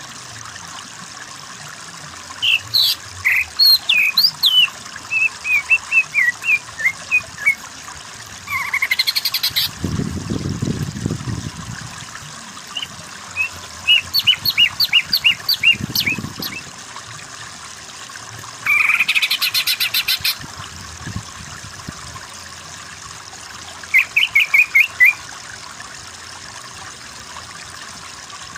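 Greater green leafbird (cucak ijo) singing in separate bursts of varied whistled notes and fast trills over a steady background of running water. Two brief low rumbles come in the middle.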